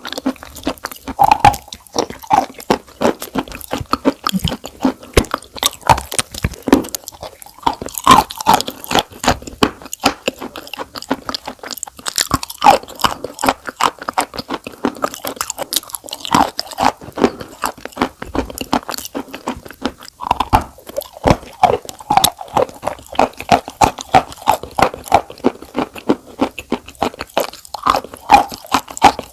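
Close-miked crunching and chewing, a dense run of crisp crackles with short pauses between bites.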